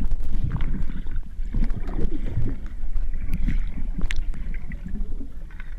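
Boat under way on the water: a steady, uneven low rumble with a few faint knocks.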